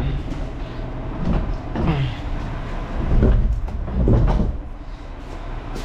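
Garbage truck engine running with a steady low rumble, with several short creaking, scraping sounds from the truck and its gear every second or so.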